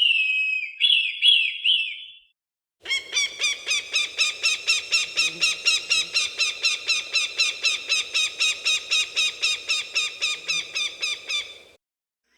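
Falcon calling: a few short cries that fall in pitch, then after a brief pause a long, rapid run of repeated call notes, about four a second, for roughly nine seconds before fading out.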